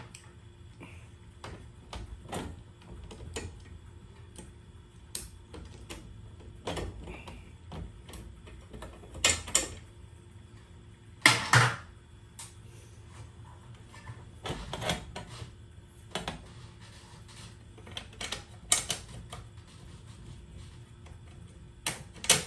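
Irregular clicks, taps and knocks of tools and hardware being handled, with several louder clattering bursts, over a faint steady hum.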